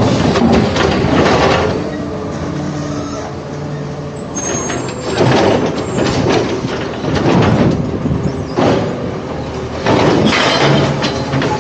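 Recycling garbage truck at work: engine running under load with repeated clanking and rattling of its machinery.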